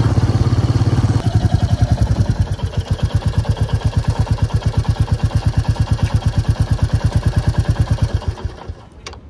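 Royal Enfield Meteor 350's single-cylinder engine running, settling after about a second into an even, rapid thumping idle. The idle fades out near the end.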